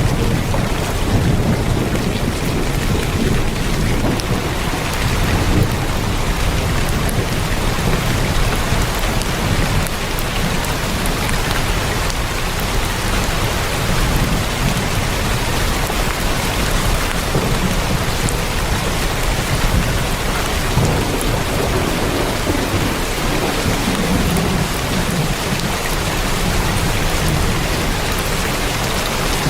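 Heavy rain drumming steadily on a tin roof, with a low rumble underneath.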